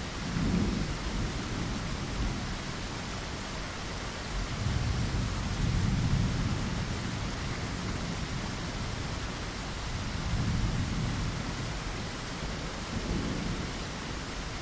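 Steady rain, a continuous hiss, with low rumbles of thunder rolling under it several times, the longest about four and a half seconds in.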